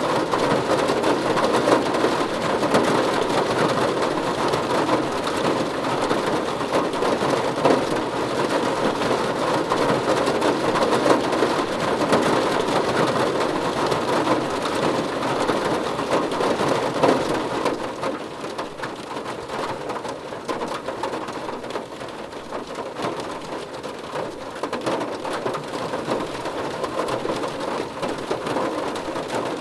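Steady rain falling, an even dense patter. It is heavier at first and eases to a lighter fall about two-thirds of the way through.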